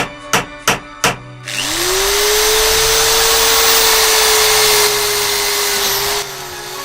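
Four sharp knocks about three a second, then an electric power tool spins up quickly and runs at steady speed for several seconds before easing off near the end.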